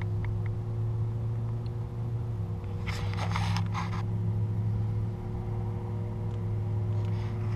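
A vehicle engine idling with a steady low hum, and a brief rustle about three seconds in.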